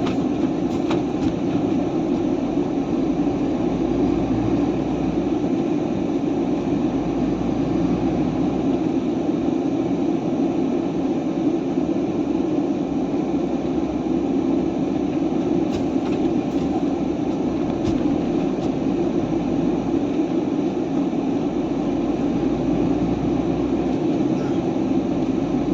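Steady engine and road drone heard inside the cab of a truck under way.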